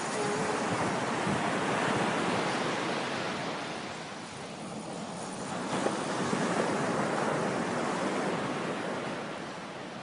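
Ocean surf washing up a beach, the rush of water swelling, easing about four seconds in, then swelling again before fading near the end.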